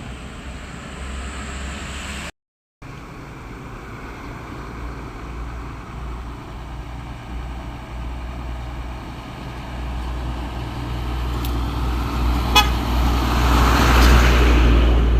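Road traffic with a heavy vehicle approaching and passing close by: a low engine and tyre rumble that grows over the last few seconds and is loudest near the end. The sound cuts out briefly a couple of seconds in, and there is a single sharp click shortly before the peak.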